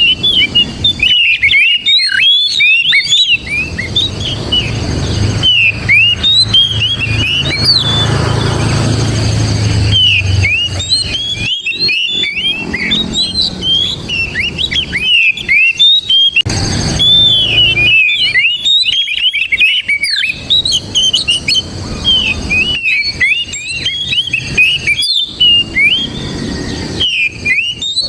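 Oriental magpie-robin (kacer) singing loudly: rapid, varied runs of sharp whistled notes and chirps in bursts with brief pauses. A low rumble sits underneath for several seconds early on.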